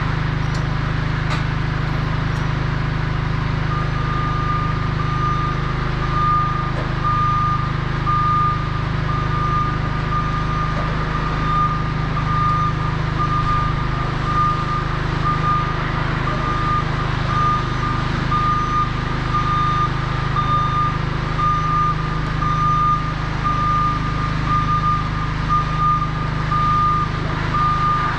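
Crown RR5210 electric reach truck's warning beeper sounding a steady, repeating single-pitch beep, starting a few seconds in. A steady low hum runs underneath.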